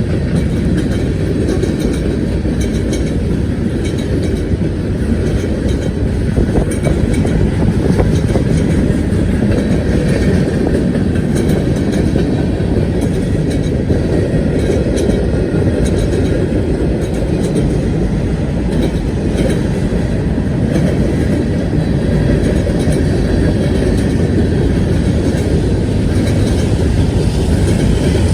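BNSF freight train rolling past, a loud steady rumble of the cars with faint clicks from the wheels.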